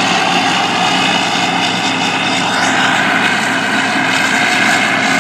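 Harvest machinery running steadily: a loud, even engine and machine drone with several steady tones, and a brief rising whine about halfway through.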